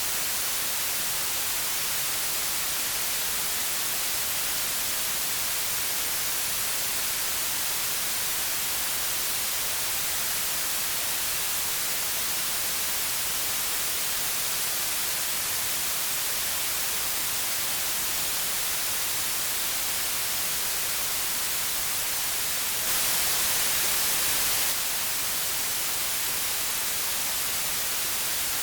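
Steady white noise, an even hiss weighted toward the high end. About 23 seconds in it turns slightly louder and brighter for roughly two seconds, then returns to its earlier level.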